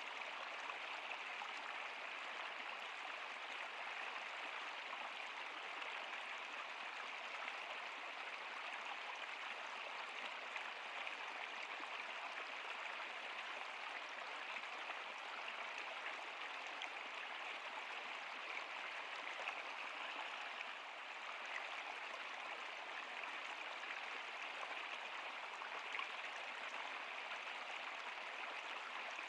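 Steady rush and babble of a flowing stream or river, with small splashes here and there.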